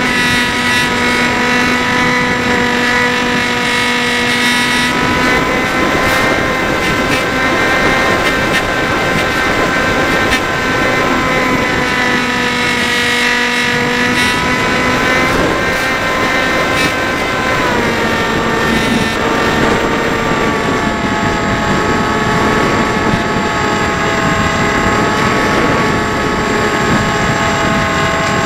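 Electric motor and propeller of a Dynam Hawk Sky RC plane whining steadily in flight, its pitch stepping down a little about two-thirds through as the throttle eases, with wind rumbling on the microphone.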